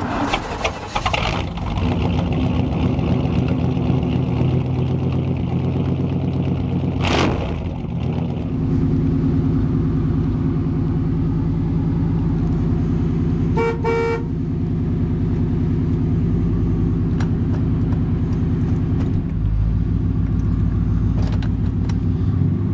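1991 Chevrolet Silverado's engine idling steadily just after a cold start, its note shifting a little about eight seconds in. A thump comes about seven seconds in, and a car horn toots briefly twice about fourteen seconds in.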